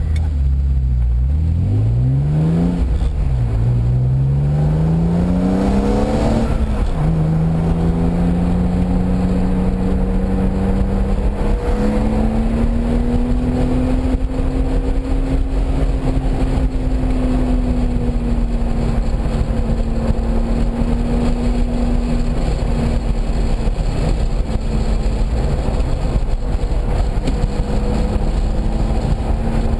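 Car engine pulling hard under full throttle. The revs fall briefly, then climb through two gears with a quick upshift drop at about 3 s and again at about 7 s, and the engine then holds high revs, wavering only slightly.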